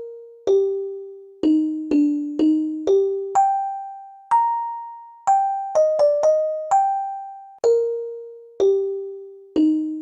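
Xylophone playing a simple tune one note at a time, about sixteen notes at an unhurried pace. Each note is struck sharply and rings out, fading before the next.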